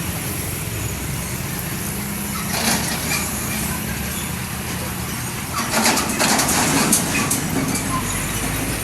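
Steady low engine rumble of vehicles at a railway level crossing, with two bursts of rattling clatter, one about two and a half seconds in and a longer one about six seconds in.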